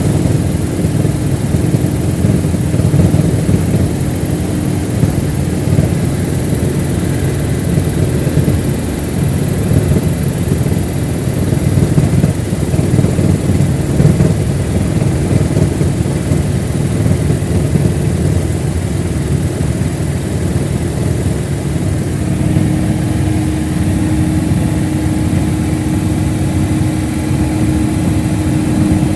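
Mil Mi-8 helicopter running steadily: dense rotor and turbine noise with a steady hum that grows stronger about three-quarters of the way through, and a thin high whine throughout.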